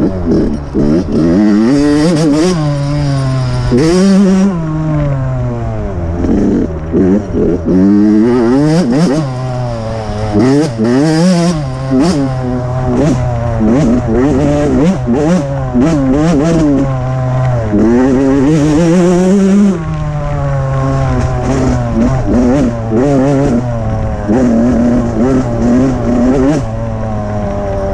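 Dirt bike engine being ridden hard, revving up and falling back over and over as the throttle is opened and closed, its pitch climbing on each run and dropping off between them.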